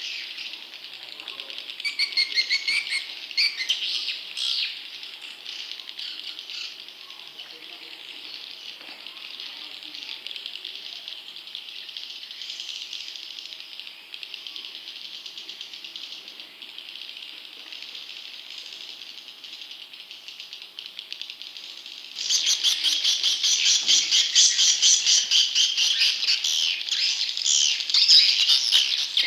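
Juvenile edible-nest swiftlets calling: a dense, continuous high twittering and chirping, used as a lure call for swiftlet farming. It grows markedly louder and busier about three-quarters of the way through.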